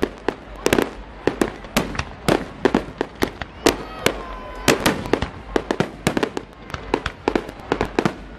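Fireworks display: an irregular barrage of sharp bangs from shells bursting overhead, several a second.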